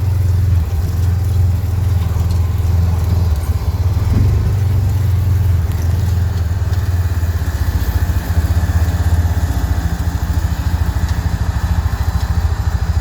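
A vehicle engine running steadily close by, a low even throb that turns more plainly pulsed about halfway through.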